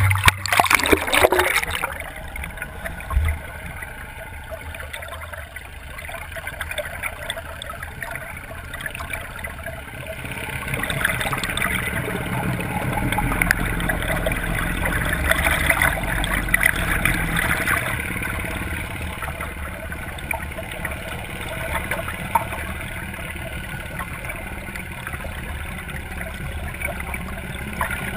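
Lake water rushing and gurgling around a camera on the end of a fishing net. It is louder and splashier for the first couple of seconds, drops, then grows louder again about ten seconds in.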